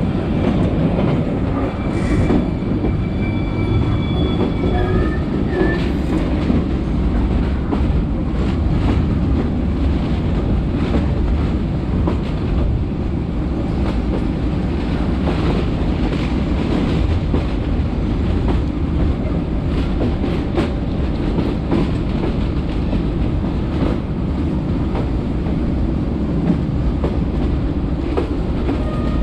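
Passenger train running along the track: a steady loud rumble with the clatter of wheels over the rails. A few thin high squeals come through in the first few seconds.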